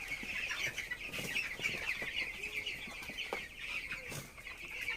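A flock of about 300 young broiler chickens peeping and cheeping constantly, many short calls overlapping into a steady chorus, with a few faint clicks.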